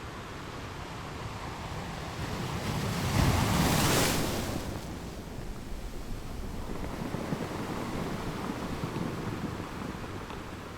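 Ocean surf: a wave swells and breaks loudly about three seconds in, then a smaller wave washes through later.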